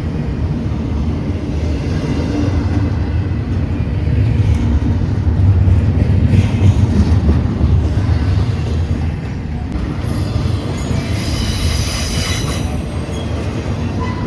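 Train rolling past with a steady low rumble of wheels on rail. About ten seconds in, a high-pitched wheel squeal joins for a few seconds.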